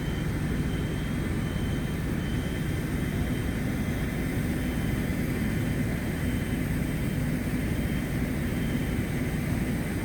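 Steady low rumble of idling fire engines, unchanging throughout.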